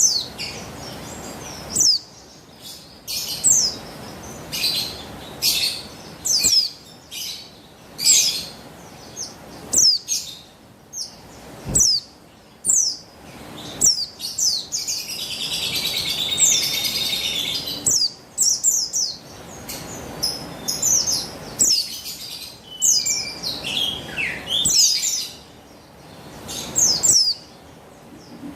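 Female buxtoni white-eye calling: short, high, downward-slurred chirps repeated every second or two, with a longer run of rapid twittering about halfway through.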